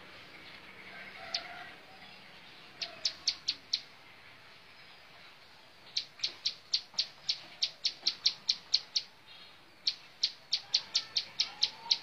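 Bar-winged prinia (ciblek sawah) calling: sharp, high ticking notes, a few at first, then a fast run of about four a second through the second half.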